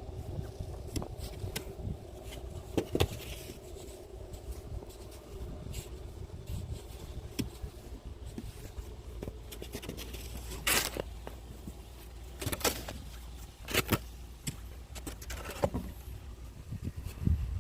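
Snow shovel scraping snow off a hard surface in short strokes, the sharpest several in the second half, over a steady low rumble.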